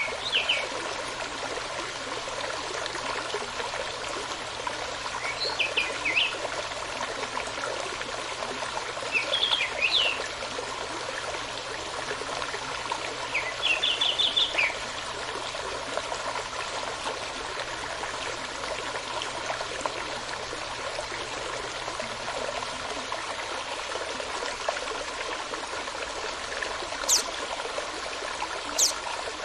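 Small stream running steadily, with songbirds breaking in four times with short bursts of quick chirps, and two sharp high notes near the end.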